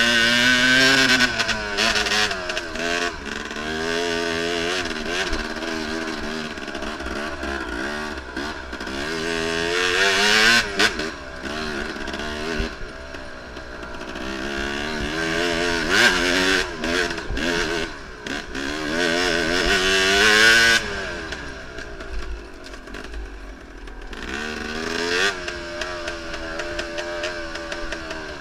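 Enduro motorcycle engine heard from on the bike, revs repeatedly rising and falling as the rider opens and shuts the throttle, with a few sharp knocks along the way.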